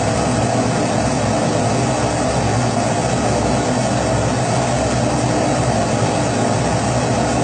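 Kerosene pressure stove burner running at full flame: a steady, even rushing hiss that does not change.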